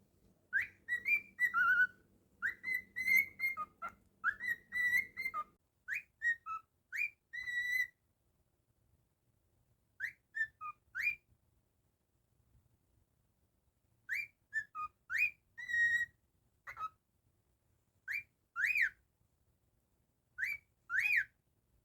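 Cockatiel whistling: short, clear notes that slide up and down, grouped in little phrases with pauses of a few seconds between them.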